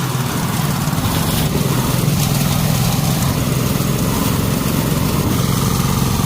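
Small engine of a brush cutter (grass cutter) running steadily at speed.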